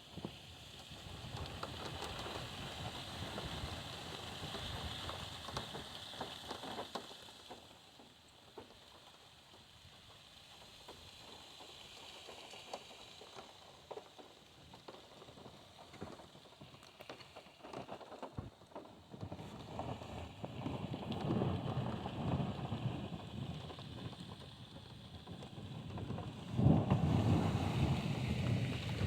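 Heavy rain drumming on a car's roof and windshield, heard from inside the car. It comes in surges: heavy for the first several seconds, lighter through the middle, then heavier again about twenty seconds in and heaviest near the end.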